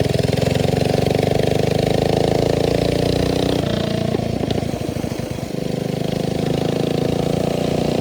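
Mini bike's small single-cylinder Hemi engine running, its note shifting about halfway through, dipping briefly, then settling and slowly rising in pitch near the end.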